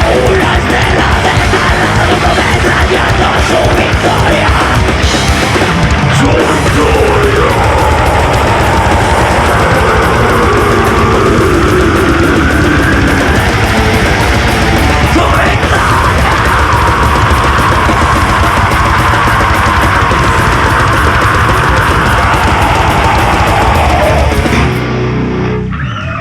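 Nu metal band playing live, loud and dense, with sliding guitar pitches over the drums; the music stops abruptly near the end.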